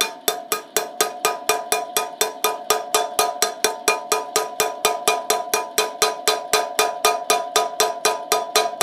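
Steady rapid hammer blows, about four to five a second, each with a metallic ring, driving a new bearing into the sprocket-side wheel hub.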